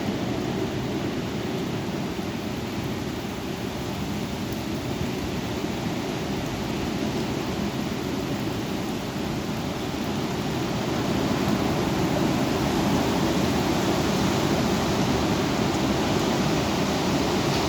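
Strong thunderstorm wind blowing in a steady rush, growing louder about eleven seconds in.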